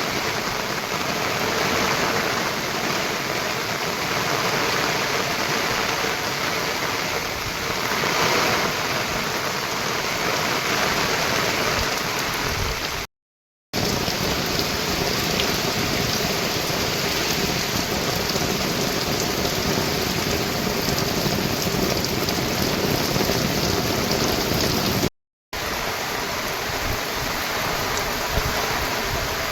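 Steady heavy monsoon rain, a dense even hiss. It cuts out completely twice, for about half a second each time, about halfway through and again near the end.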